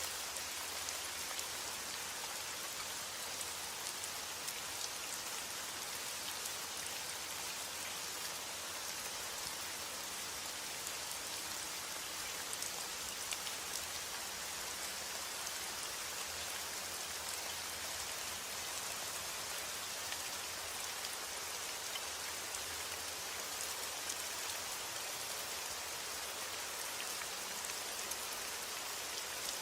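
Heavy rain falling steadily on a roof, with scattered louder drop hits.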